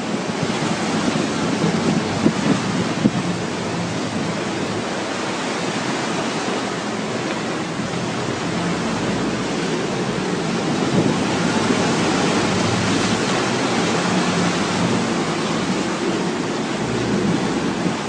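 Steady rushing noise of wind and sea water around a boat at sea, with two faint knocks a few seconds in.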